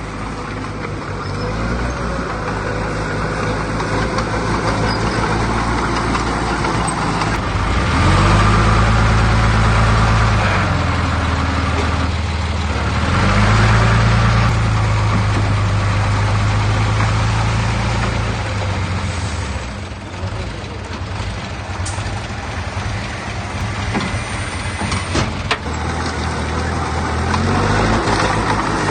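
Heavy diesel engine of earthmoving machinery running under load, swelling louder twice, about a third of the way in and again through the middle. A few sharp knocks come in the last third.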